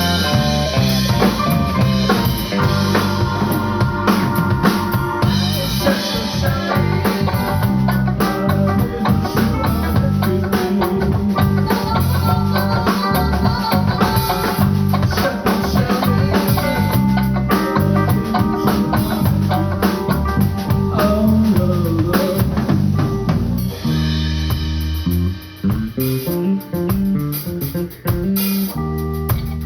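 Live band playing with drum kit, electric guitar and bass guitar. About 24 seconds in, the drums drop out and bass and guitar carry on.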